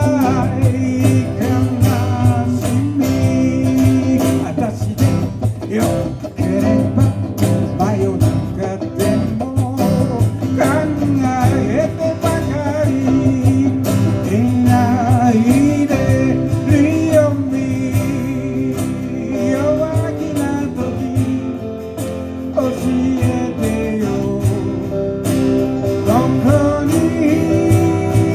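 Live music: a voice singing over guitar with a steady drum beat.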